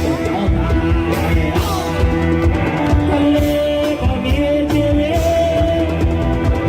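Loud live music from a Thai rot hae sound-truck band: a singer holding long notes over bass and a steady drum beat.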